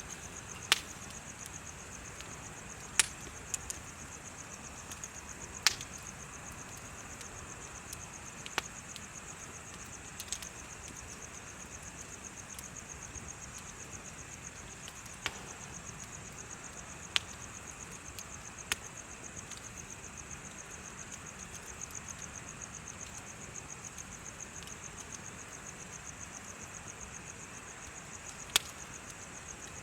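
Bonfire burning, with sharp pops and cracks of wood at irregular intervals, about a dozen in all, over a steady high trill of insects chirping.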